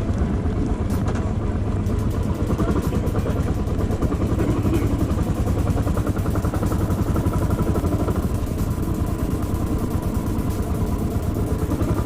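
Royal Enfield Classic 500 single-cylinder motorcycle engine running steadily after a kickstart, with a fast, even beat of firing pulses.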